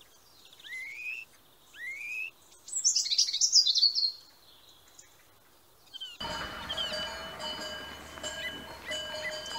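Bird calls: two rising whistled notes, then a quick burst of high chirps. About six seconds in it cuts abruptly to louder music with steady sustained tones.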